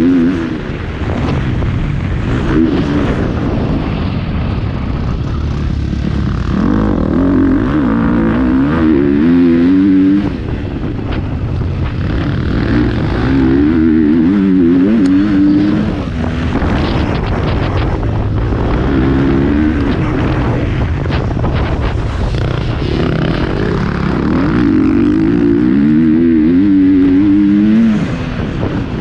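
Motocross bike engine revving up and down as it is ridden round the track, surging loud for a few seconds at a time and dropping back between surges.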